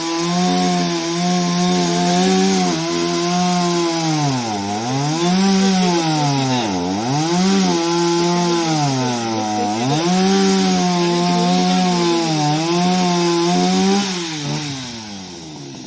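Two-stroke chainsaw running at high revs while cutting through a fallen tree's wood. Its pitch dips several times as the chain bites and bogs under load, then winds down near the end.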